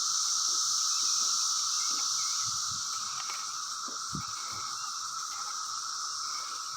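A massed chorus of 17-year periodical cicadas droning steadily, in a lower and a higher pitched band. A few soft low scuffs sound beneath it.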